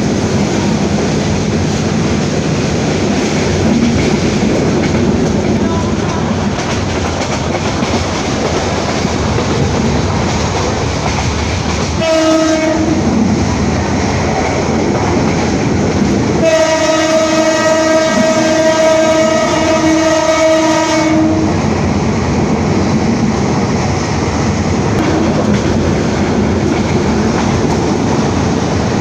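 Moving passenger train with steady wheel-on-rail running noise. A train horn sounds a short blast about twelve seconds in, then a long blast of about five seconds a few seconds later.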